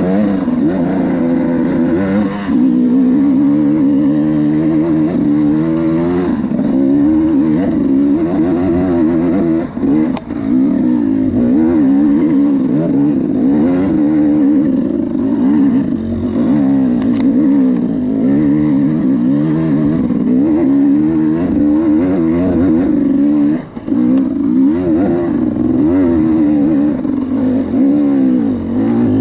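Enduro motorcycle engine running, its revs rising and falling constantly with the throttle, briefly dropping off about ten seconds in and again near twenty-four seconds.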